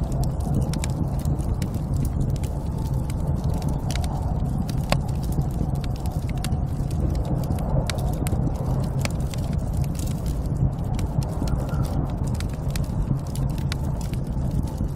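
Snowstorm wind as a steady low rumble, with frequent short sharp crackles scattered over it.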